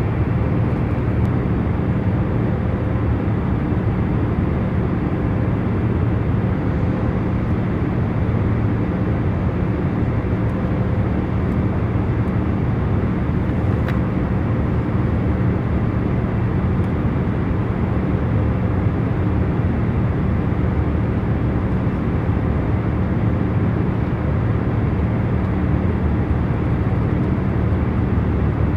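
Jet airliner cabin noise in cruise: a steady, deep rushing drone with a faint hum of engines and air, unchanging throughout. A faint tick about fourteen seconds in.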